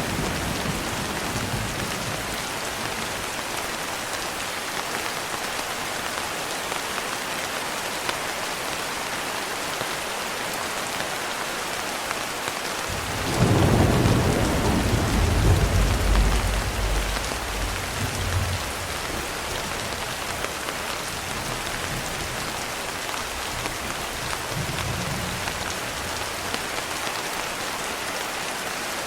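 Steady rain pattering on a window glass, with a roll of thunder that breaks in suddenly about halfway, rumbles for about five seconds and fades away. Fainter low rumbles come near the start and again near the end.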